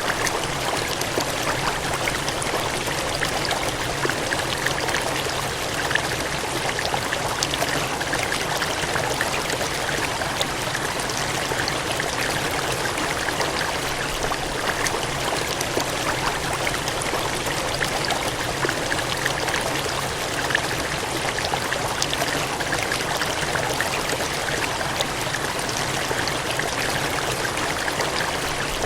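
Gushing, cascading water: a steady, even rush with many small splashes flicking through it.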